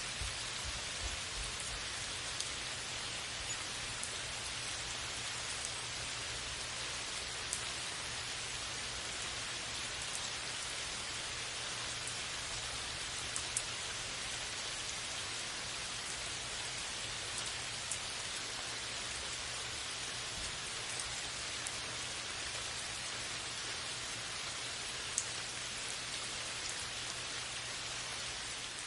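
Steady rain falling, an even hiss with occasional sharper single drops striking close by.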